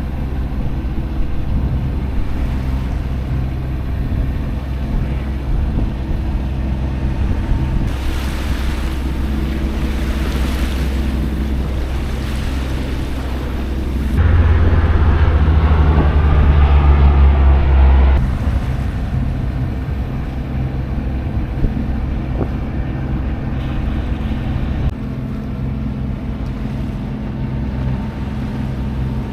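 A sailboat's engine running steadily under way, with water rushing past the hull and wind on the microphone. A louder stretch of rumble and rushing comes about midway and lasts a few seconds.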